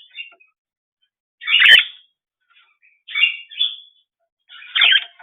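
A pet bird calling: three short, loud calls about a second and a half apart.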